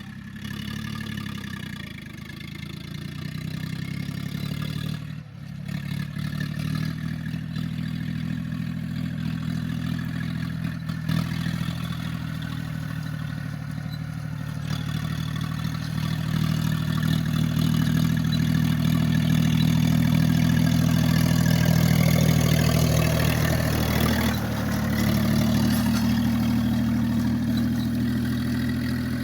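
Tractor engine running steadily, its pitch shifting a few times as the revs change, and growing louder in the second half, with a brief dip in speed near the end.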